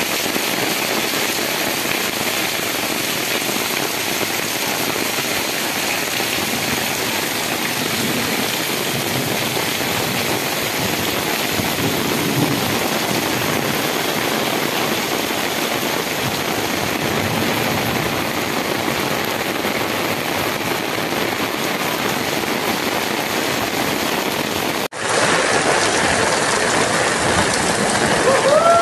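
Heavy rain pouring steadily onto a waterlogged dirt street and paving, a constant hiss. About 25 seconds in it cuts abruptly to a louder rush of water as a vehicle wades through a flooded street.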